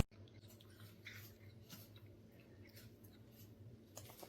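Quiet room tone with a faint low hum and scattered faint small clicks and rustles, a few sharper clicks about four seconds in.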